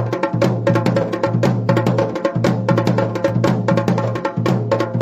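Dhol and damau, the paired drums of Garhwali folk music, played together in a fast, steady rhythm of dense strokes.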